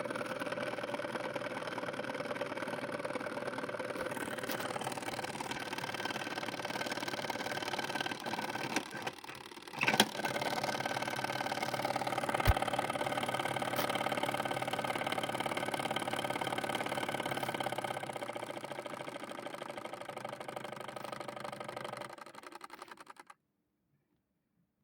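LG washing machine drum turning, loaded with wheels and tires: a steady motor hum with a short lull and a loud knock about ten seconds in. It winds down and stops near the end.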